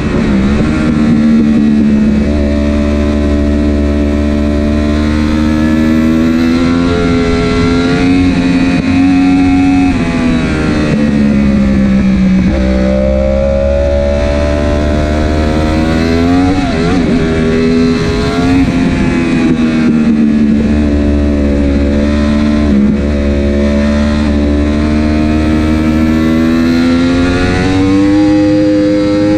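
Superbike engine at racing speed, its note climbing under acceleration and falling away into the corners several times. The gear changes are made on the clutch, since the quickshifter and autoblip are out.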